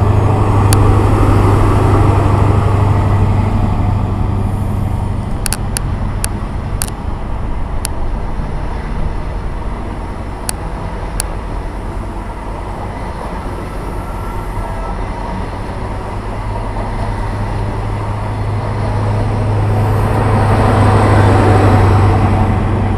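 A train at a station platform: a steady low drone that eases off through the middle and builds again near the end, with a few sharp clicks along the way.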